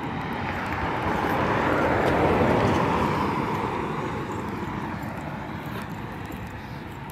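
A vehicle passing by: its steady noise swells to a peak about two seconds in, then slowly fades away.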